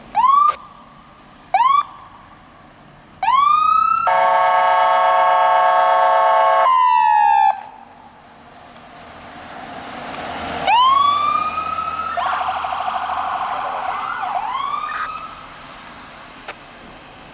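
Emergency vehicle siren: three short rising whoops, then a steady horn blast of about three seconds whose pitch slides down as it ends. The siren then winds up again, switches to a fast yelp and fades away.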